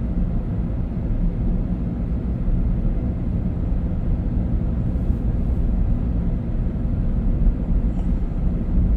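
Steady drone of a car being driven, engine and tyre noise heard from inside the cabin.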